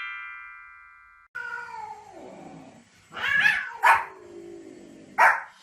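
A descending chime rings out and fades, then a pet animal calls: a long, drawn-out falling whine followed by three short, loud calls about a second into its second half, the last near the end.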